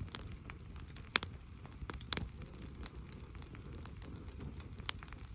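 Wood campfire crackling, with a few sharp pops about a second in, about two seconds in and near the end, over a low steady noise.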